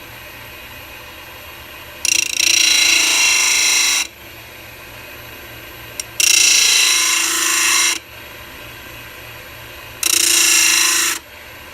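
Mini lathe motor running steadily, with a 6-inch sanding disc spinning on it. A steel 1/8 inch lathe tool is pressed to the abrasive three times: each press gives a loud grinding of metal on sandpaper lasting one to two seconds, starting and stopping abruptly as the tool is touched on and lifted off.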